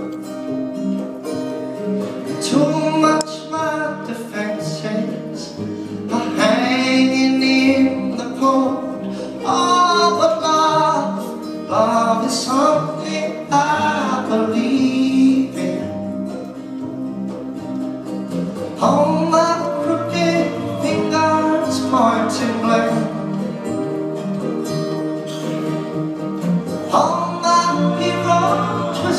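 Live band playing, with guitar and long, gliding sung vocal lines over sustained chords.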